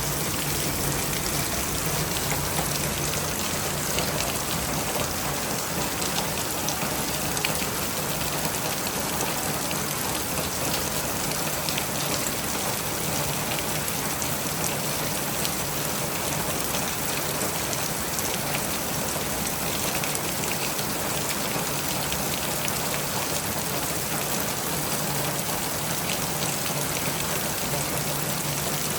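Steady rain falling, with many individual drops ticking on a surface throughout.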